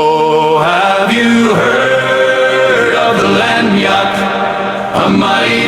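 Music: a choir singing long held notes.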